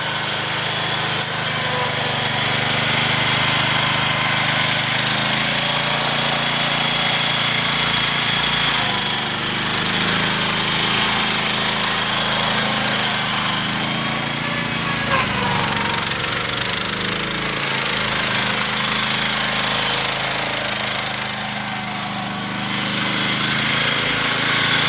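Garden tractor's 16 hp Briggs & Stratton engine running steadily while the tractor drives along.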